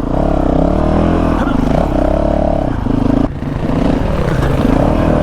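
Honda CRF450RL's single-cylinder four-stroke engine running under load on a rough trail, its revs rising and falling with the throttle, with a brief dip a little over three seconds in.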